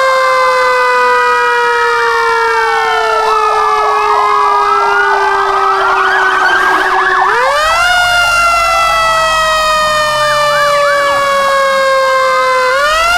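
Fire truck siren wailing: the pitch climbs quickly, then slides slowly down over several seconds, and the cycle repeats twice. Fainter rising and falling wails cross the main one.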